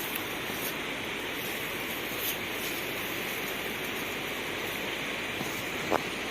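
Steady rush of flowing river water, with one short sharp click near the end.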